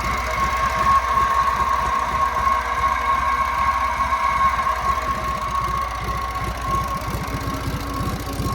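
1956 JAP Model 55 824cc stationary engine running steadily on TVO, driving a 5 kW generator, its firing strokes coming as a fast, even beat under a steady high whine.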